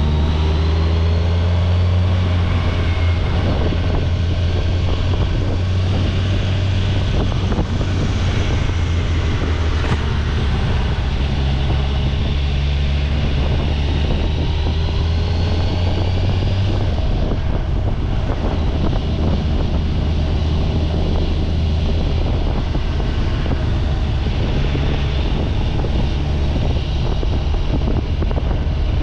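Kawasaki Ninja 1000SX's inline-four engine running steadily under way, with wind noise on the microphone. The engine note drops a little about seventeen seconds in.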